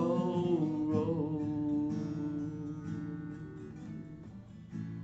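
Acoustic guitar playing the basic chords of a slow song, the strummed chord ringing and fading away. A fresh strum comes near the end.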